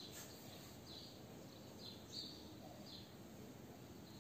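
Faint bird chirping: short high chirps repeated about once a second over quiet room hiss.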